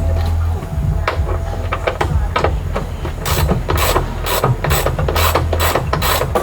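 Hand ratchet wrench clicking as it turns a car door's hinge bolts. Scattered clicks at first, then a fast, even run of clicks from about halfway through, over a low steady hum.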